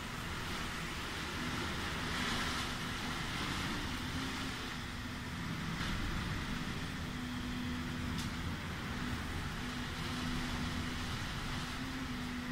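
Heavy thunderstorm rain and gusting wind heard from behind a window pane, a steady rushing noise. A faint low hum comes and goes, and a sharp tick sounds about two-thirds of the way through.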